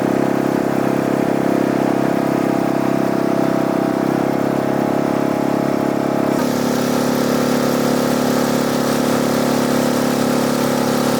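Inflatable boat's outboard motor running steadily. About six seconds in its note drops a little and a hiss rises alongside it.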